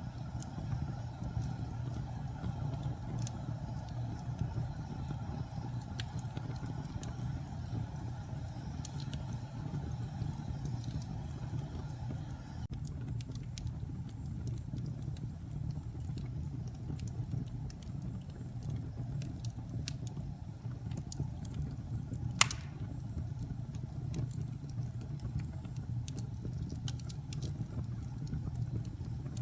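Wood fire burning in a fireplace: a steady low rumble with sparse small crackles and one louder pop about three-quarters of the way through.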